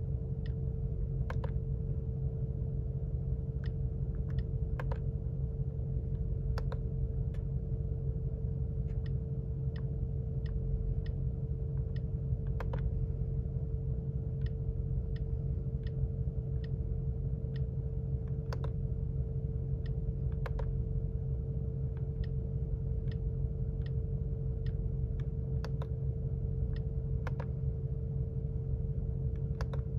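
A Mercedes-AMG G63's twin-turbo V8 idling steadily, heard as a low rumble with a faint steady hum inside the cabin. Over it come irregular light clicks, one or two a second.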